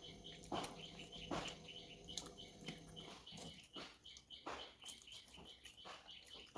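Close-miked eating: wet chewing and mouth smacks, one every half second to a second or so.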